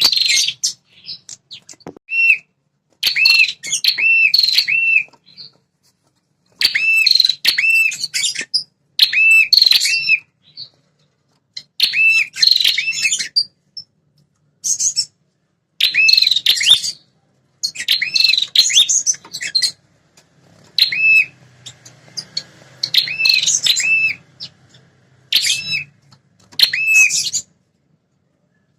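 Red-headed prenjak, a small warbler, singing its territorial song. It repeats short phrases of quick arched chirps, about one phrase every one to two seconds, with brief pauses between them.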